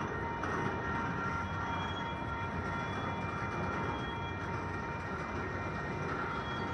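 Freight train cars rolling steadily past, a continuous rumble of wheels on rail with thin, steady high-pitched squeals from the wheels.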